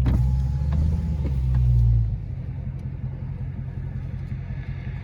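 Low, steady exhaust rumble from the 2018 Dodge Charger Scat Pack's 6.4-litre V8 with a mid-muffler delete, louder for about the first two seconds and then settling.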